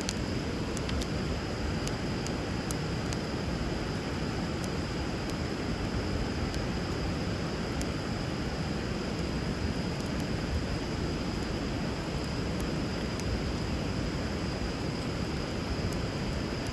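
Wood bonfire crackling with sharp, irregular pops over the steady rush of river water flowing, with a thin steady high tone above.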